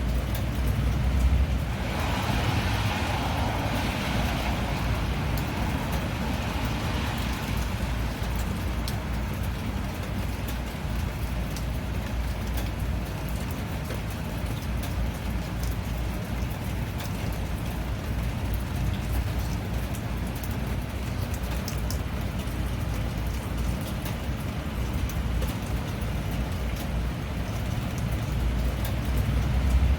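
Steady rain, an even hiss with scattered drop clicks over a low rumble, swelling briefly a few seconds in.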